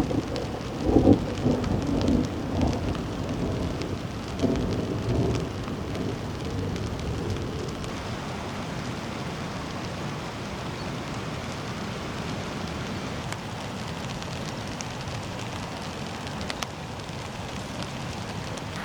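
Steady heavy rain, with irregular low rumbling bursts during the first several seconds that then die away, leaving an even hiss of rain.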